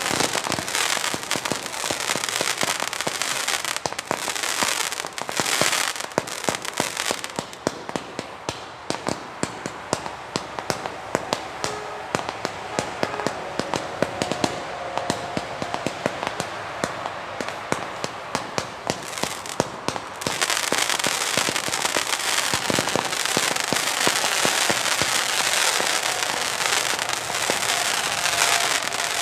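Weco Pyro Concept 905 compound firework battery firing: a dense, rapid stream of shots and crackling pops. It is fuller and louder at the start, thins out for a stretch in the middle, and swells again near the end.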